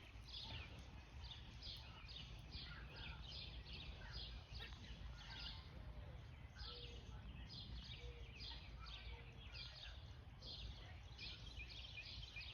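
A squirrel calling at an intruder: short, high, sharp calls repeated about twice a second, typical of a squirrel's alarm barking, with a brief pause near the middle, over a faint low rumble.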